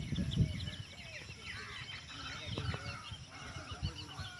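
Many birds chirping and calling at once, short overlapping chirps and whistles, with some low rumbling near the start.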